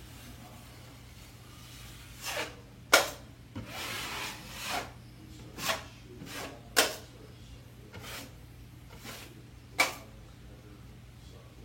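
Drywall knife spreading and scraping quick-set joint compound into screw holes: a string of short scraping strokes with sharp clicks of the blade, the loudest about three, seven and ten seconds in.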